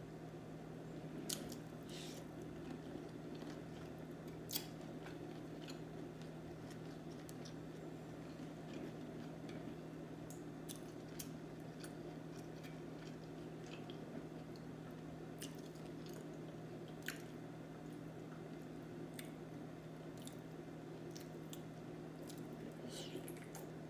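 Close-up eating sounds: wet chewing and squishing of sauce-soaked seafood boil, with scattered short sharp clicks and smacks. A steady low hum runs underneath.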